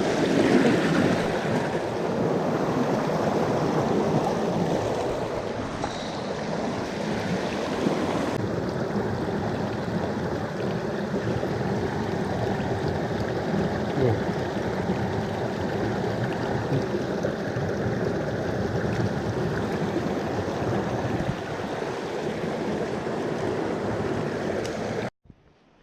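Mountain stream running steadily, a continuous rush of water that cuts off abruptly near the end.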